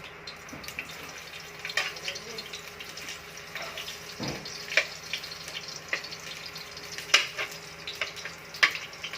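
Garlic sizzling in hot cooking oil in a pan, frying toward brown, with sharp irregular clicks and scrapes as it is stirred.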